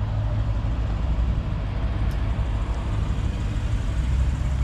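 Lexus RC F's 5.0-litre V8 idling steadily, a deep even hum.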